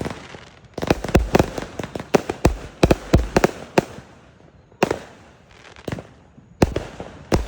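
Fireworks bursting: a quick run of sharp bangs from about a second in to nearly four seconds, then a few single bangs spaced out.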